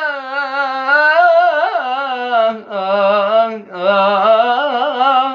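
A man singing a mawwal unaccompanied, holding long wordless notes with wavering, ornamented turns. He pauses briefly twice, about two and a half and three and a half seconds in.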